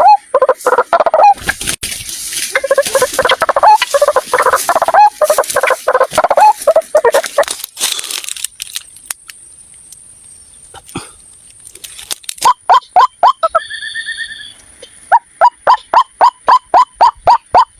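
White-breasted waterhen calling: dense runs of rapid, harsh repeated calls. After a quieter pause of a few seconds they give way to a regular series of sharp notes, about two to three a second.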